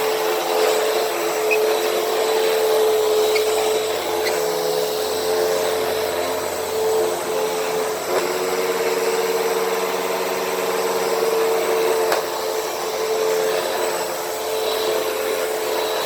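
Hoover WindTunnel T-Series upright vacuum running steadily on carpet, its motor giving a constant whine over the airflow rush. The pitch of the whine shifts slightly about eight seconds in.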